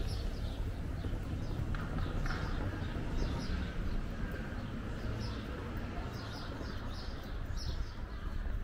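Small birds chirping over and over in short, quick calls above a steady low rumble of street ambience.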